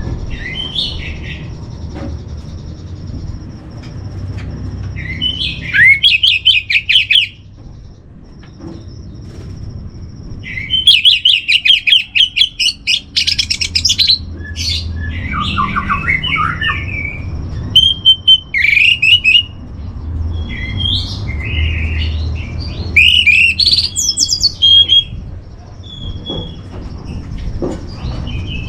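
Orange-headed thrush singing: loud bursts of rapid, fluttering high phrases, each a second or two long with short pauses between, over a steady low background rumble.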